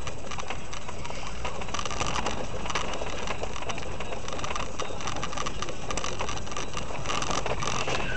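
Steady road and engine noise of a moving car, with a running patter of short clicks and crackles.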